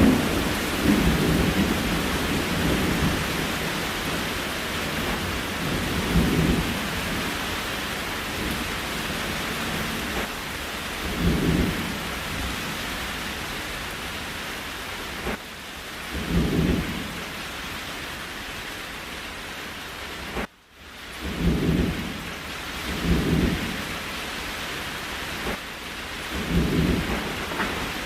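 Steady rain hiss with a short low rumble every few seconds, and a brief drop-out about twenty seconds in.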